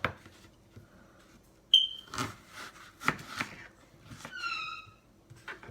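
A kitchen knife cutting through an apple onto a plastic chopping board, a few sharp chops about two and three seconds in. A short high whistled note sounds about four and a half seconds in.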